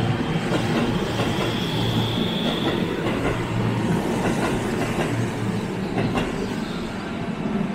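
Keihan 3000 series electric train pulling out of the station past the platform: a steady running rumble with the wheels knocking over rail joints, and a brief high whine about one and a half seconds in.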